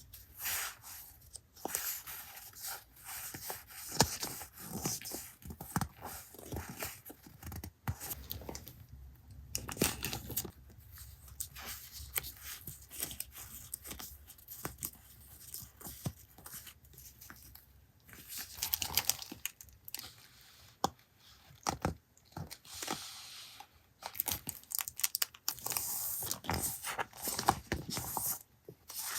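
Paper being handled by hand: irregular tearing, crinkling and rustling, with small sharp crackles and a couple of brief lulls.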